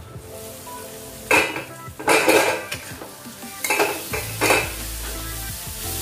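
Metal lid lifted off a kadhai, then a metal spatula stirring potatoes and peas in it, clanking against the pan several times, over a steady sizzle of frying.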